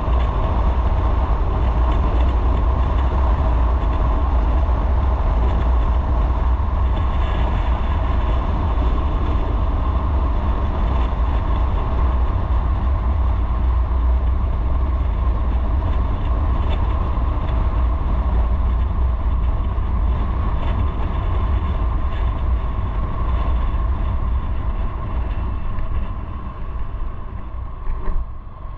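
Motorcycle on the move: a steady engine note under heavy low wind rumble on the microphone, easing and turning uneven in the last few seconds.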